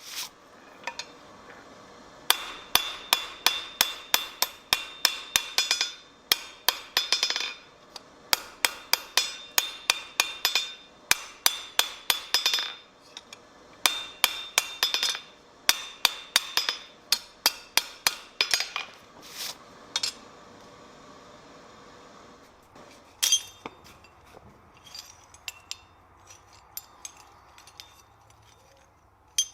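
Blacksmith's hammer striking on an anvil in quick runs of blows, each blow leaving a ringing tone. The hammering stops about two-thirds of the way through, with only a couple of single strikes after.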